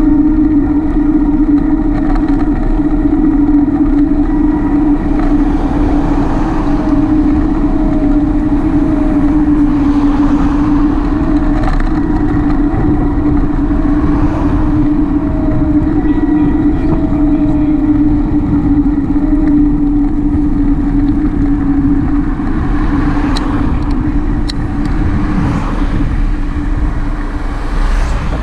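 Steady hum and rumble of a bicycle ride on the move, with a fainter wavering tone above the hum.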